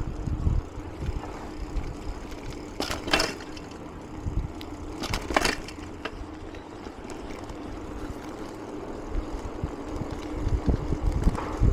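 Mountain bike rolling along: a steady tyre hum with wind buffeting the microphone, and two short hissing rushes about three and five seconds in.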